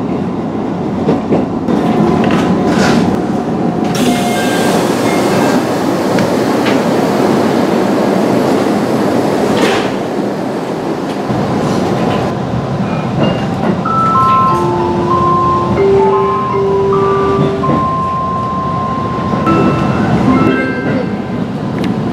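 Aichi Loop Railway electric train noise: a steady rumble and hiss that grows louder about four seconds in. Over the last third a short electronic melody of clear single notes plays, the kind of station or door chime melody this line is known for.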